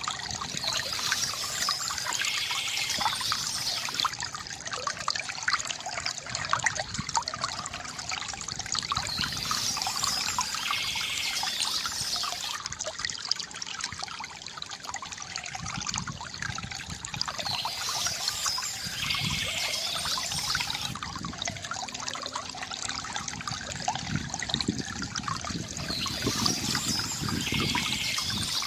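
Water trickling and gurgling from a bamboo fountain, a steady splashing flow. A brighter stretch of splashing comes back about every eight seconds.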